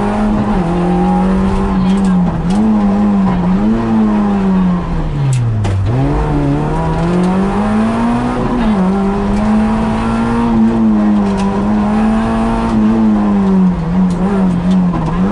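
Peugeot 106 rally car's four-cylinder engine at racing revs, heard from inside the cabin. The revs hold mostly steady with brief dips. About six seconds in they fall sharply, then climb back up.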